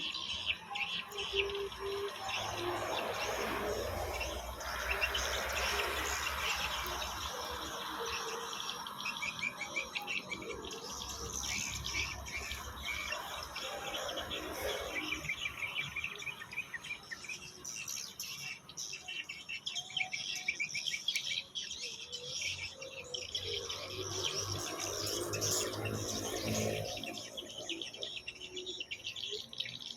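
Swiftlets chirping and twittering continuously in a dense, rapid chorus, with a lower rushing noise swelling up twice.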